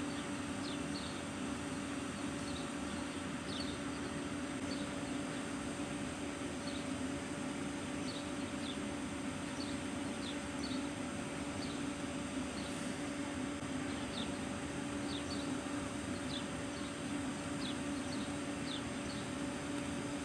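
A stationary train humming steadily at idle, with short high bird chirps repeating over it.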